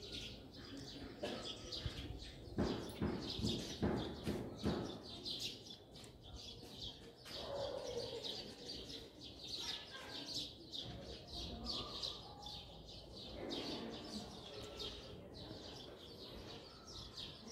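Small birds chirping faintly and repeatedly in short, high calls. A low, muffled background rumble sits under them from about two to five seconds in.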